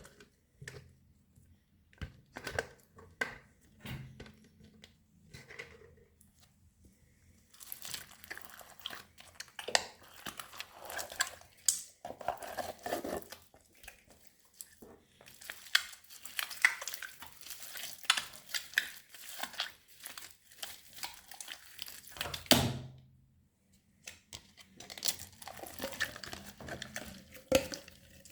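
Hands squishing and kneading a large mass of mixed old slime, with crackling and popping. The squishes are scattered for the first several seconds, then dense through the middle, ending with a low thump. After a short pause near the end, the crackling starts again.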